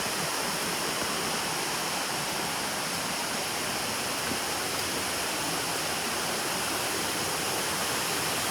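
Steady rush of a nearby waterfall: falling water making an even, unchanging noise with no breaks.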